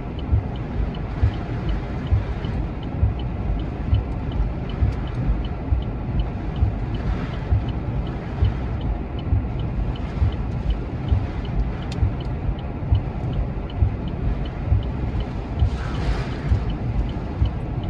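Microburst winds buffeting a parked car: a loud, steady rush with low, irregular thumps from the gusts.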